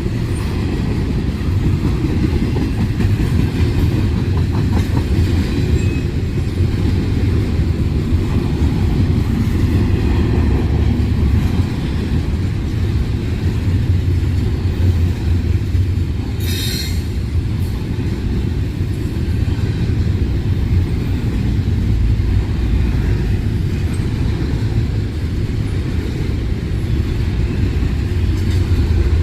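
Freight train cars rolling past, a loud, steady rumble of wheels on the rails. A brief high squeal cuts through a little past halfway.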